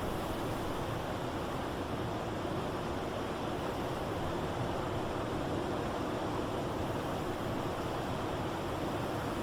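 Blizzard wind blowing in a steady, even rush with no gusts or breaks, with a faint steady tone running beneath it.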